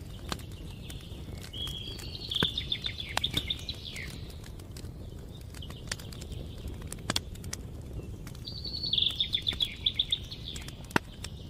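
A songbird sings two short trilled phrases several seconds apart over a campfire crackling with scattered sharp pops and a low steady rush.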